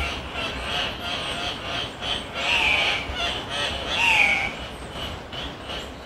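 Andean cocks-of-the-rock calling: a run of short repeated calls, with two longer calls falling in pitch about two and a half and four seconds in.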